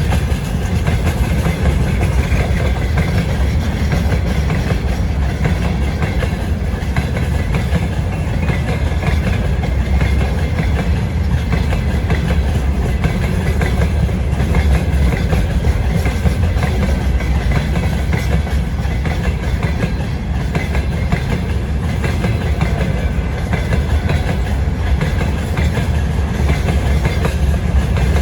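Freight train wagons rolling past, their wheels clattering steadily over the rail joints with a continuous low rumble.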